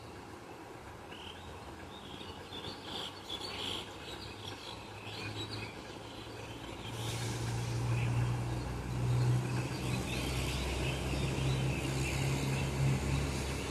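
Small birds chirping in short scattered calls. From about six seconds in, a vehicle engine's steady low hum comes in and grows louder, becoming the loudest sound.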